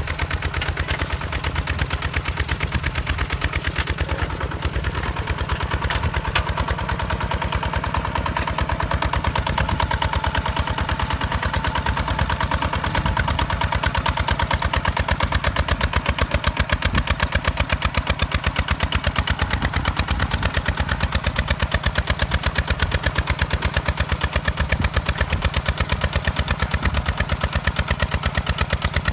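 Single-cylinder diesel engine of a walk-behind hand tractor running steadily with a fast, even chugging beat, a little louder in the second half.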